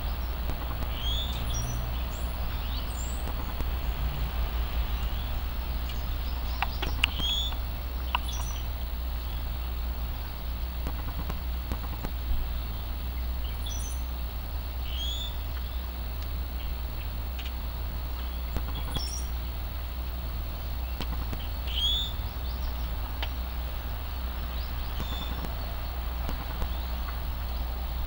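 Small birds chirping over and over, short high notes, over a steady low rumble. A few sharp taps, the loudest about seven and twelve seconds in, fit a pileated woodpecker pecking at a wire suet cage.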